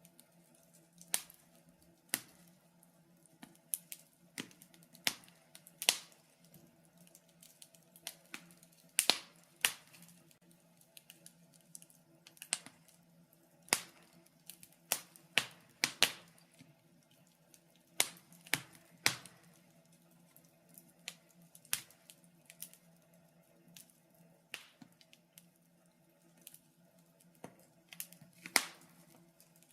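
Wood fire crackling in a fireplace: irregular sharp pops and snaps, a few of them much louder than the rest, over a faint steady low hum.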